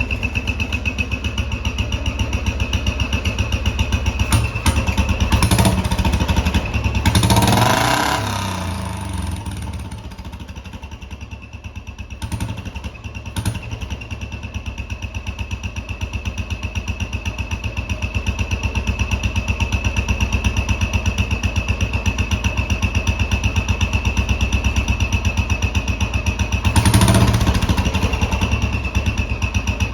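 Royal Enfield Bullet's single-cylinder engine idling with an even beat, with a turbo whistle fitted in its exhaust giving a steady high whistle over it. The engine is revved briefly about seven seconds in and again near the end.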